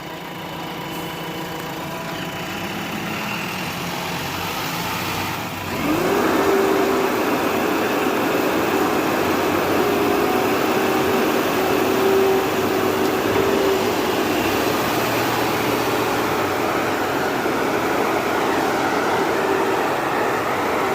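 Heavy diesel engine running, then revving up sharply about six seconds in and held at high revs, with a steady whine over the engine noise.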